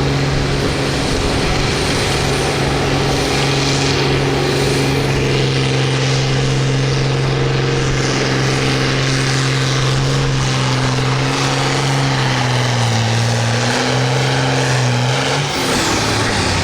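Farm tractor engine pulling hard under load on a pulling sled, held at steady high revs. Its pitch sags about twelve seconds in as it lugs down, then it drops off abruptly near the end.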